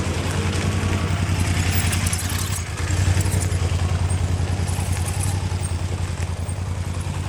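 Motorcycle engine running at steady low revs, with a brief dip about two and a half seconds in before it picks up again.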